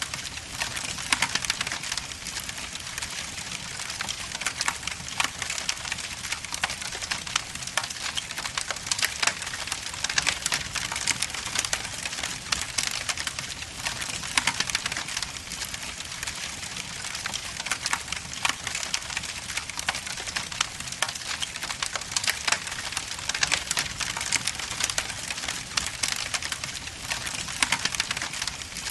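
Wood logs burning in a fireplace, crackling with many small sharp pops and snaps over a steady hiss.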